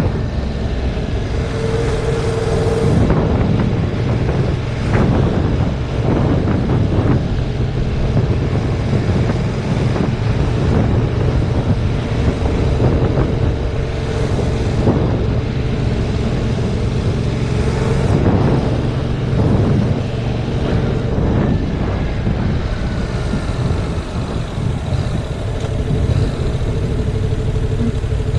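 Yamaha MT-07's 689 cc parallel-twin engine running while the bike is ridden along, heavily buffeted by wind on the camera microphone. The engine pitch swells and falls a few times as the throttle changes.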